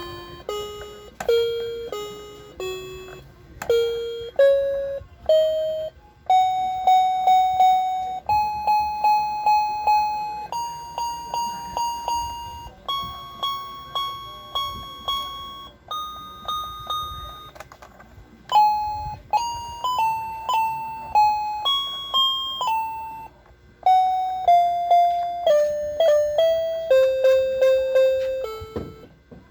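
Electronic toy playing a beeping melody: clear chip tones stepping up and down in pitch, most notes sounded as quick repeated pulses.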